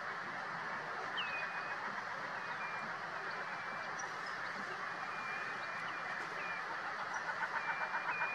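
Steady background rush with several faint, short high bird calls scattered through it. A rapid pulsing sound starts near the end.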